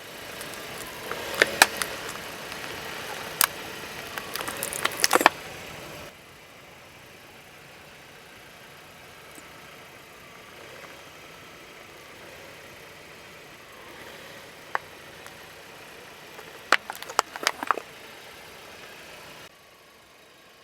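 A car with its engine running rolls slowly while its tyres crush objects, giving a series of sharp cracks and crunches: a cluster in the first five seconds and another burst around three-quarters of the way through.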